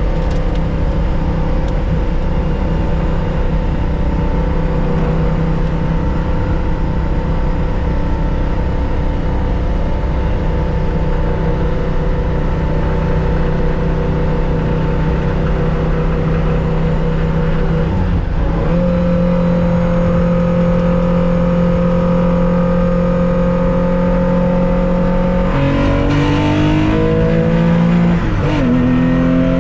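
Onboard sound of a 1965 Porsche 911 2.0's air-cooled flat-six under racing load, its note held steady for long stretches. About two-thirds of the way through the note breaks briefly and settles again, and near the end the pitch steps down and up several times, as with gear changes.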